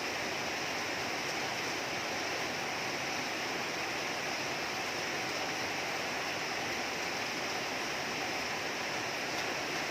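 Heavy rain falling steadily, an even hiss of downpour with no letup.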